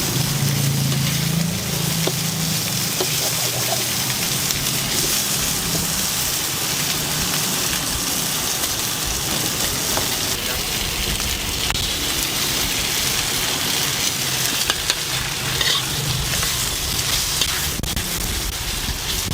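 Rice noodles and chicken sizzling as they stir-fry in a hot wok: a steady hiss with occasional clicks of the spatula.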